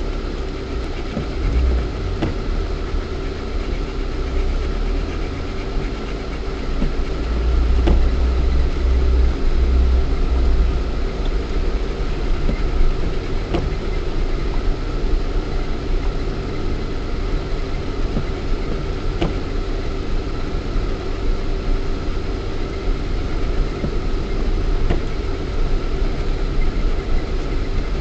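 Lada Niva 1.7i's four-cylinder petrol engine and drivetrain running under way, heard from inside the cabin, with a low rumble that grows heavier from about 7 to 11 seconds in. Scattered short knocks from the body and suspension over rough ground.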